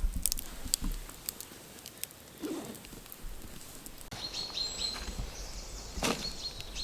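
A few clicks and knocks over a low rumble. About four seconds in the sound changes abruptly to wild birds chirping, short repeated calls.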